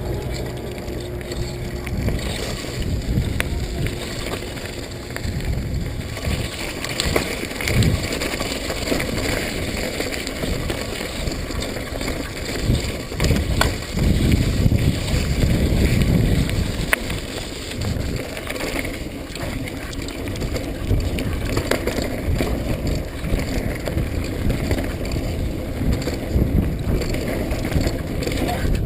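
Mountain bike riding a wet dirt trail: a rumbling rush of tyres with scattered clicks and rattles from the bike, louder around the middle.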